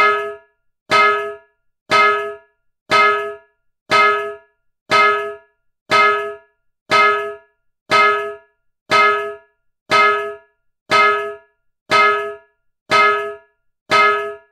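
A piece of metal struck hard and evenly about once a second, fifteen times over. Each strike is an identical clang with a short, bell-like ring.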